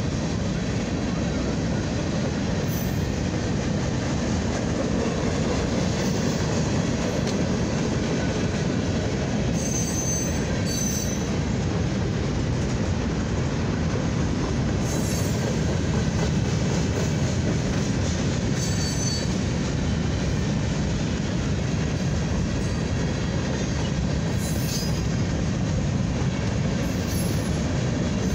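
Freight train's tank cars and covered hoppers rolling steadily past, a continuous rumble and clatter of steel wheels on rail. A few brief high-pitched wheel squeals come at irregular moments.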